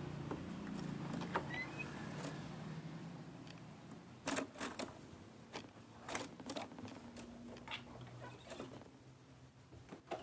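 Scattered sharp clicks and taps, thickest about four to nine seconds in, over a low steady hum.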